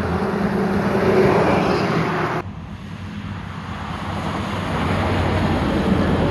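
Road traffic with heavy trucks passing: a low engine drone and tyre noise swell as a truck goes by, drop off suddenly about two and a half seconds in, then build again as another vehicle approaches.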